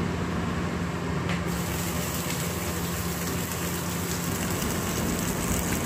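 Steamed bottle gourd pieces sizzling in hot desi ghee in a frying pan as they are laid in to roast. It is a steady hiss that turns sharper about a second and a half in.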